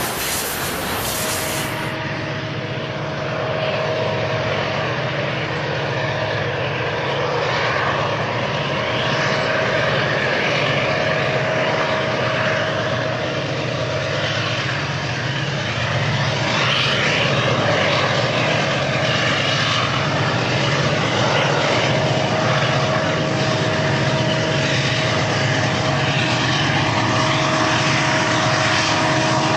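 BNSF diesel-electric freight locomotives running, a steady engine drone with a held tone over it, growing slightly louder.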